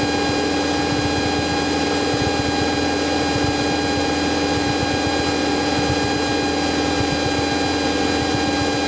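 Cessna 172's engine and propeller droning steadily in cruise, heard inside the cockpit, a constant noisy drone with a steady hum of several pitches over it.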